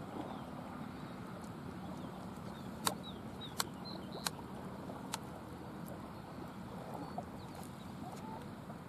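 Small birds giving a few short chirps over a steady low background rumble, with several sharp clicks in the middle.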